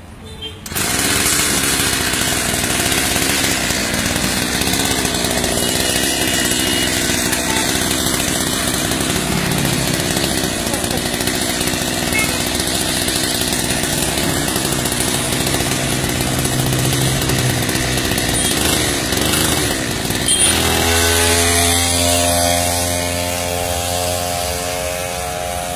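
Small engine of a mini motorbike running, its pitch rising and falling; about twenty seconds in it settles to a steadier note.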